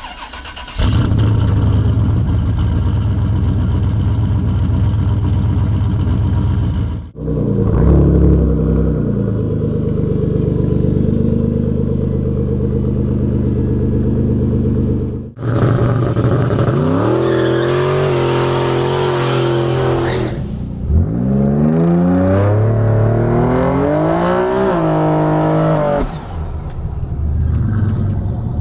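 Turbocharged street-car engines running hard at high revs, then accelerating, with the pitch climbing and dropping back at each gear change. The sound breaks off abruptly a few times between cut-together clips.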